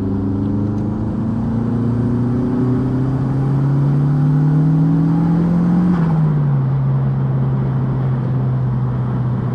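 Turbocharged 1.8T 20v four-cylinder engine in a Mk2 Golf pulling under acceleration, its note rising steadily for about six seconds. It then drops in pitch with a brief hiss at a gear change and runs on at a steady lower note.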